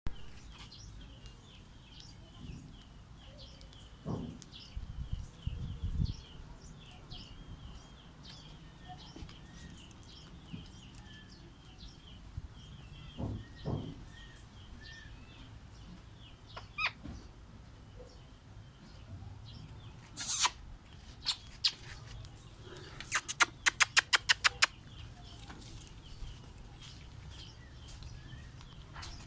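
Pet parrots chirping in a long run of short, high chirps, with a few low thumps. Past the middle comes a louder burst, then a quick run of about a dozen sharp clicks.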